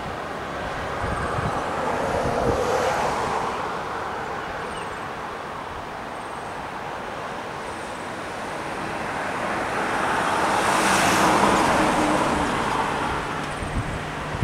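Road traffic: the tyre and engine noise of passing vehicles swells twice, about two seconds in and again around eleven seconds, over a faint steady low hum.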